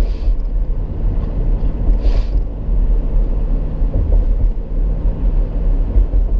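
Car driving on the road, heard from inside: a steady low engine and road rumble, with a brief hiss about two seconds in.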